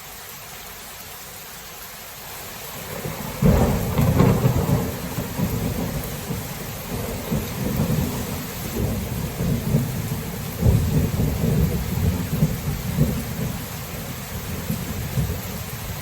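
Steady rain, then about three and a half seconds in a loud clap of thunder breaks into a long crackling rumble that surges again about ten and a half seconds in and keeps rolling under the rain.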